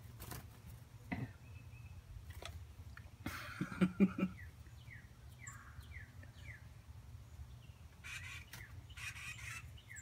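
Small songbird calling with short, quickly falling chirps, a run of them about two a second, then more near the end. A brief louder burst of rustling noise about four seconds in.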